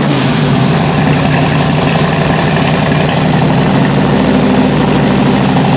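Chevrolet Camaro SS V8 engine idling steadily, heard from behind at the exhaust.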